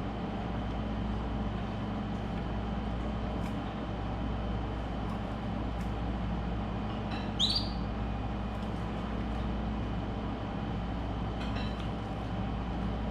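Steady low background hum with a few faint clicks. About seven seconds in, a pet canary gives one short rising chirp, the loudest sound.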